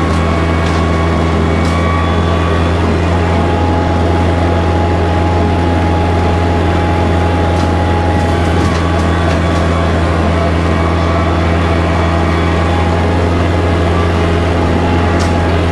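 Kubota tractor's diesel engine running steadily under a bush hog (rotary cutter), a constant low drone with a few faint clicks or snaps.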